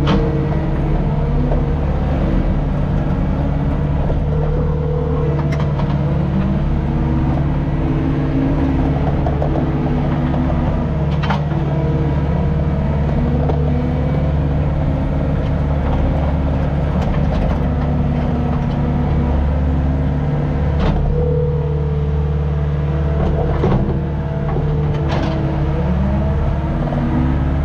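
Skid steer running steadily while grading, its engine and hydraulics shifting in pitch as it works, with a few sharp clanks.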